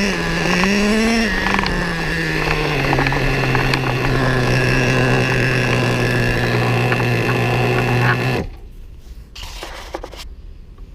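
Small nitro RC engine, a Losi 3.4 in a Traxxas Revo 3.3 truck, giving a short blip of throttle about a second in, then dropping back to a steady idle. It stops abruptly about eight seconds in, leaving only faint background noise.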